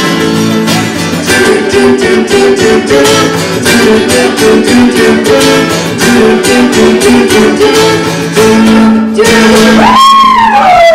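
Acoustic guitar strummed steadily under held chords in a live pop-rock song. About nine seconds in, a loud pitched call rises sharply and then glides slowly down, and the performers call it bird sounds.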